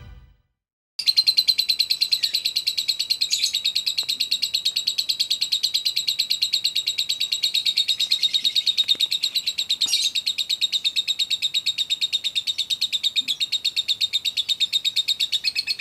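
Lovebird singing one long unbroken trill: a fast, even run of high chirps, about seven a second, starting about a second in and not pausing.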